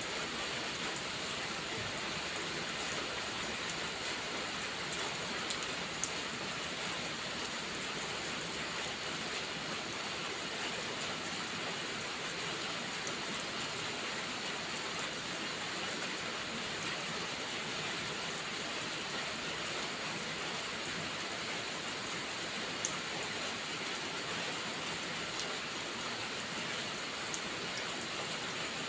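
Steady rain falling, an even hiss of rain on surfaces, with a few faint sharp clicks now and then.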